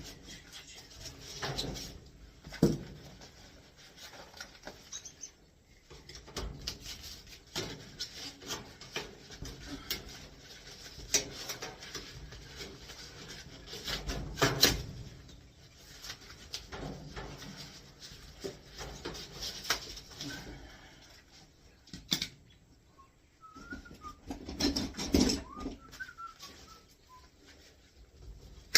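Irregular knocks, clanks and rubbing from hand work on the old air handler and its lines as they are cut loose and pulled apart. A few sharp knocks stand out, and a few short chirp-like squeaks come near the end.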